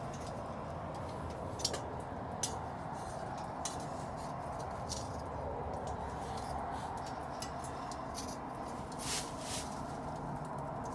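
Wood bonfire burning, with irregular sharp crackles and pops over a steady background hiss.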